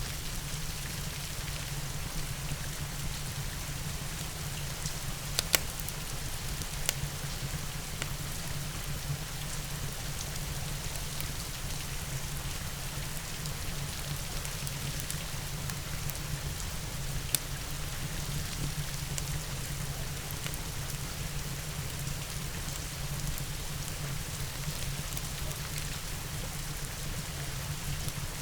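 Steady rain with the crackle of a wood fire, a few sharp pops standing out, the loudest about five and a half seconds in and another near seventeen seconds, over a constant low rumble.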